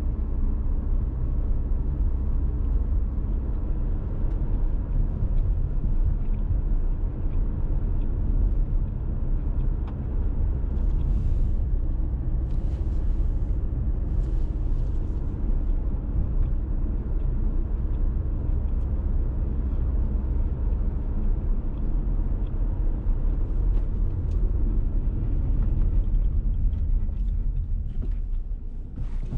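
Dacia Duster 1.6 SCe's naturally aspirated four-cylinder petrol engine running steadily while the car is driven, with a constant low rumble of engine and road noise. A few short hissing noises come about halfway through, and the sound dips briefly near the end.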